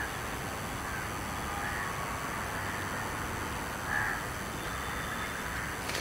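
Birds giving a few short, separate calls over a steady outdoor background hiss.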